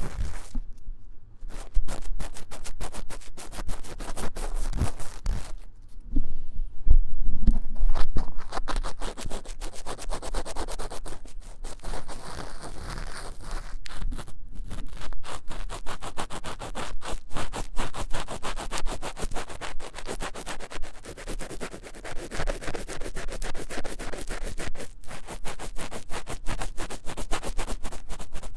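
Fast, vigorous scratching of an ear-cleaning tool inside the ear of a 3Dio binaural microphone, many short strokes a second. A few low thumps come about six to eight seconds in.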